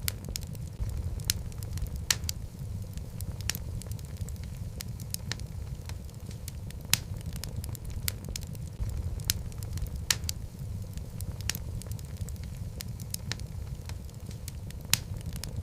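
Wood fire burning in a fireplace: a steady low rumble of flames with irregular crackles and a few sharper pops from the burning logs.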